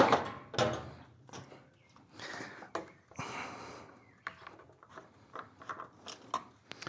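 Handling noises: scattered light clicks and knocks with two brief rustling noises a couple of seconds in, over a faint low hum.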